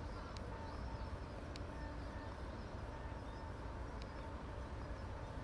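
Outdoor ambience: a steady low rumble with a faint steady hum, a few light ticks, and faint high chirps.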